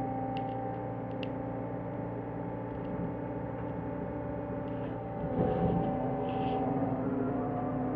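John Deere 325G compact track loader's diesel engine running steadily, with a louder, rougher stretch about five seconds in as the machine works.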